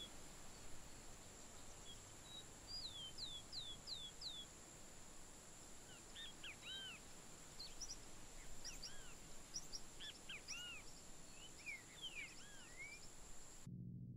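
Birds calling outdoors: a series of four or five quick descending whistles, repeated about three seconds in, then a busy run of short arched chirps, over a steady high-pitched hum. Everything cuts off suddenly just before the end, leaving a low hum.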